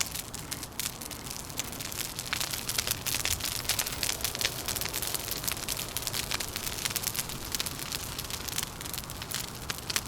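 Wood fire crackling with many irregular sharp pops, over a steady low rumble of wind.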